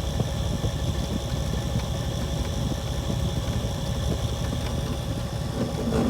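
Leslie 825 speaker rotor driven at fast speed by a swapped-in DC motor and belt, running with a steady rumble of vibration and light clicking; the clicking comes from a faulty drive pulley that needs to be remade. A louder hum comes in near the end.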